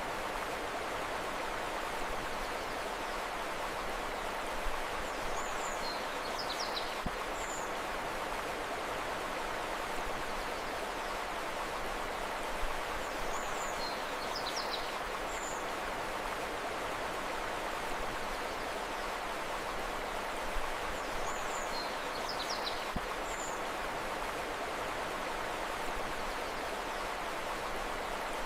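Steady rushing flow of a river, with short, high bird chirps coming in small clusters about every eight seconds.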